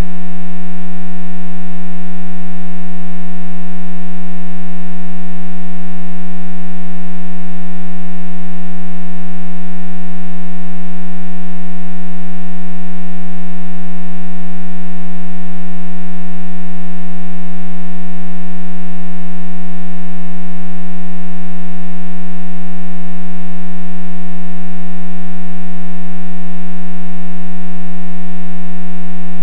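A loud, steady buzzing hum with a low fundamental and a row of overtones, unchanging in pitch and level throughout.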